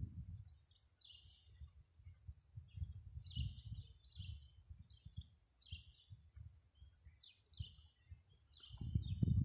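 Small songbirds chirping repeatedly in short high notes, over a low, uneven rumble that grows louder near the end.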